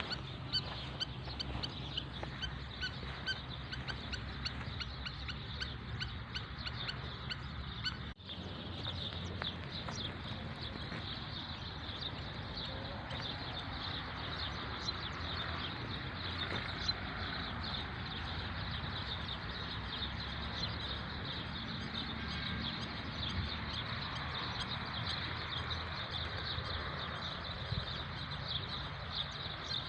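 Outdoor nature ambience of rapid, high, repeated chirping by small animals, over a steady low hum. The sound cuts out briefly about eight seconds in.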